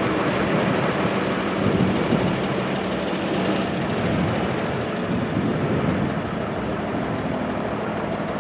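Freight train of auto rack cars rolling away on the rails, a steady rumble that fades slightly.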